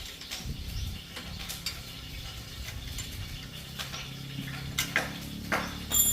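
Irregular metallic clicks and clinks of hand work on a bicycle's parts. From a little over halfway a low motor hum builds up underneath.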